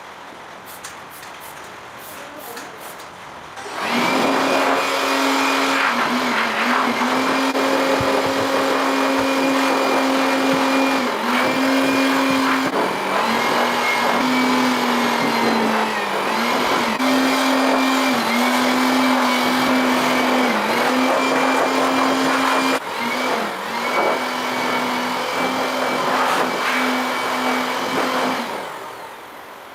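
A high-speed electric power tool starts about four seconds in and runs steadily. Its pitch dips briefly several times, as if it is being pressed into the work, and it stops shortly before the end.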